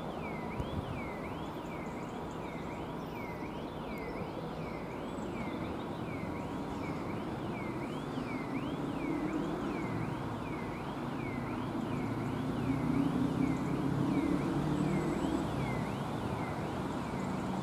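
A diesel multiple unit approaching, its rumble growing louder over the second half. A repeating electronic warbling tone sweeps down and up about one and a half times a second.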